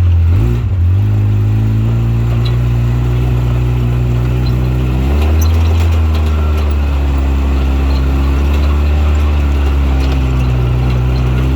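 A vehicle engine running steadily, its note shifting about five seconds in.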